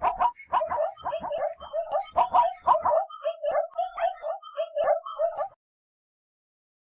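A dog yipping in quick succession, several short high yelps a second, stopping suddenly about five and a half seconds in.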